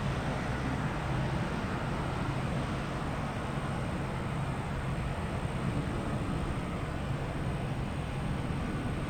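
Steady low rumble of distant jet airliner engines.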